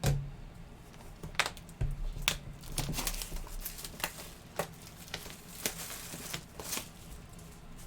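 Plastic shrink-wrap being torn and crinkled off a sealed trading-card hobby box, with irregular crackles and sharp snaps.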